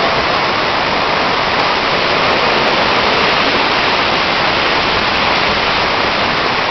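Large, high-volume waterfall about 68 m tall, its water falling and crashing in a loud, steady rush of noise.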